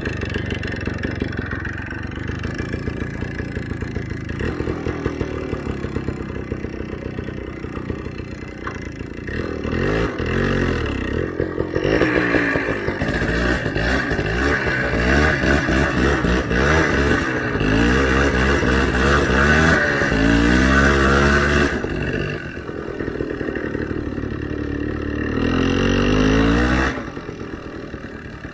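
Small motorcycle engine revving up and down again and again, the revs climbing and falling. It runs hardest through the middle, then drops back to a lower, steadier note near the end.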